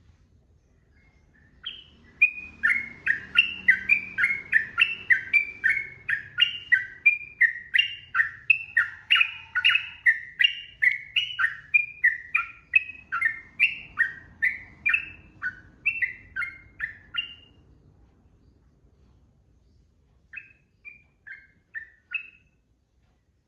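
Sooty-headed bulbul (trucukan) singing a long, rapid run of loud, evenly repeated whistled notes, about three a second, lasting some fifteen seconds. After a pause, a short burst of about five notes follows near the end.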